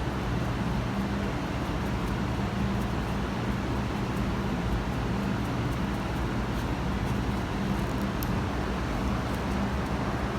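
Steady low rumble of background noise with a faint hum and no distinct events.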